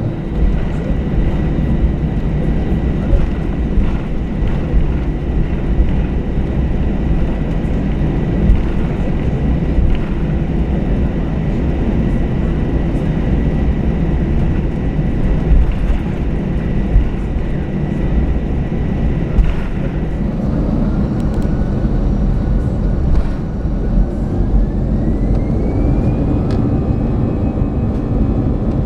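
Cabin noise of an Airbus A320 with its jet engines running: a steady dense rumble with a thin high whine that stops about twenty seconds in. A new whine then rises in pitch over a few seconds near the end.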